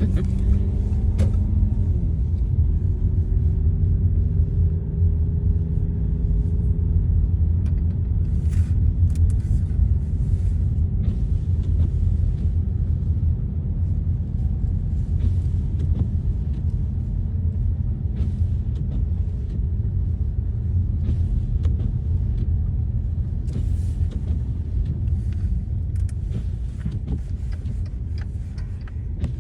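Car driving on a snowy road, heard from inside the cabin: a steady low rumble of engine and tyre noise. A faint pitched hum drifts during the first few seconds, and light clicks come and go.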